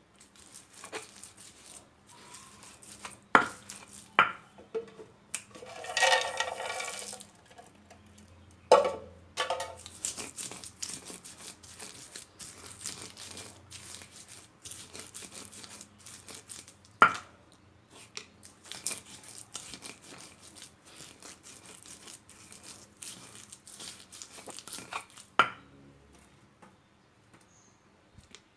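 Hungry goats tearing at and chewing leafy fodder, a steady run of rips, crunches and sharp clicks. About six seconds in, one goat gives a drawn-out bleat, with a shorter call a few seconds later.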